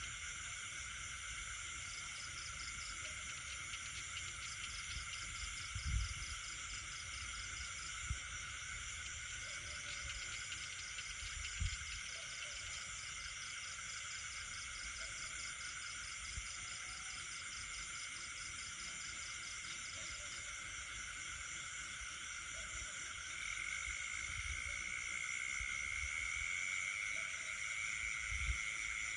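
Night chorus of insects and frogs: layered steady high-pitched insect trilling, with a rapid pulsing call through much of the first two-thirds and a louder steady trill joining about three-quarters of the way in. Faint short frog calls sound lower down, with a few soft low thumps.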